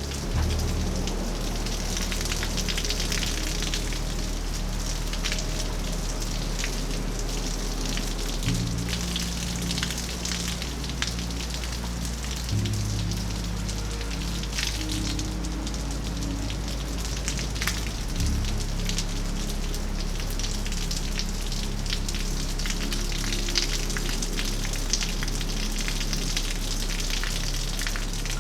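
Steady rain falling, with many small drop ticks, under soft background music of sustained low notes that change every few seconds.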